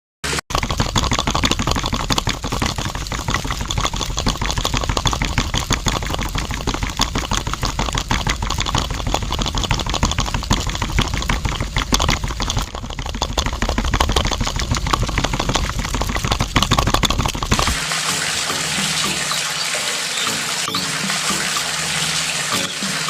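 Water pouring and splashing, dense and churning with a strong low rumble. About 18 seconds in it changes to a smoother, hissing flow.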